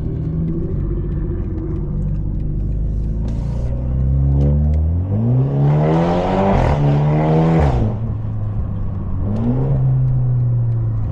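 Straight-piped, catless BMW 530 exhaust cruising steadily. About four seconds in the car accelerates and the exhaust note climbs in pitch, with a brief break near the middle, then drops back about eight seconds in. After a short small rise, it settles into steady cruising again.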